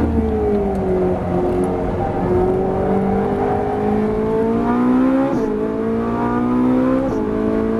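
Ferrari 458 Italia's naturally aspirated V8 heard from inside the cabin on track. The engine note falls off for about a second, then climbs steadily under acceleration, dropping sharply with quick gear shifts about five and seven seconds in before climbing again.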